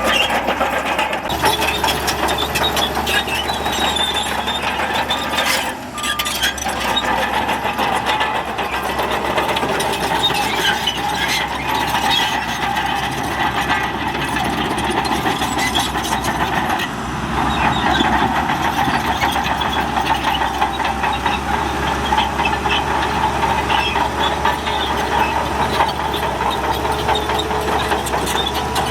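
Shantui crawler bulldozer working dirt, its diesel engine running under load over a steady metallic clatter of the tracks. The level dips briefly about six seconds in and picks up again about seventeen seconds in.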